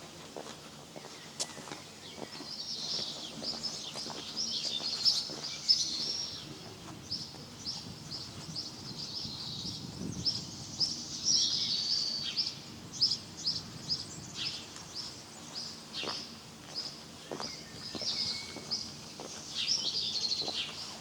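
Small songbirds chirping and singing, a continuous run of short, high repeated notes that thickens into denser bursts of twittering a few times.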